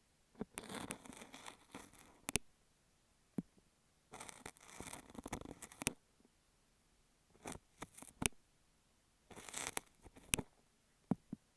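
An ear pick scraping and crumbling kinetic sand on a beeswax sheet held against an earphone microphone. It comes as four crackly, scratchy strokes of a second or two each, with short pauses between them and a few sharp clicks.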